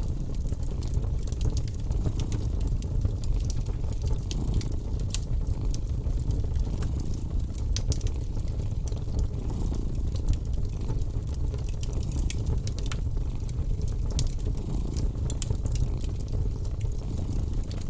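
A cat purring in a steady low rumble, with a fire crackling in scattered sharp pops over it.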